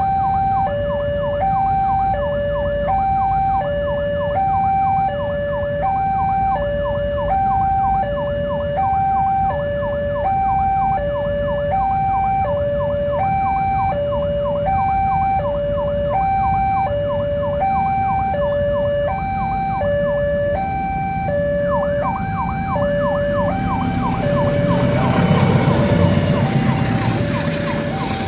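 Level-crossing warning alarm sounding an alternating two-tone signal, high and low notes swapping about every 0.7 seconds: the crossing's warning that a train is coming. In the last five seconds a passing train's rumble and wheel noise rises over it.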